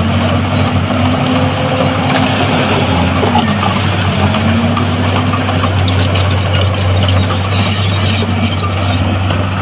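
Heavy diesel engine of earthmoving machinery running steadily under load, its pitch dipping briefly and recovering about three and a half seconds in.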